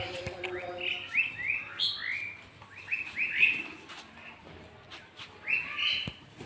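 Small birds chirping in three quick bunches of short, sharp chirps.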